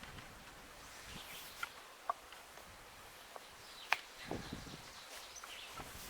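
Faint, scattered bird chirps with a few sharp, light clicks in between.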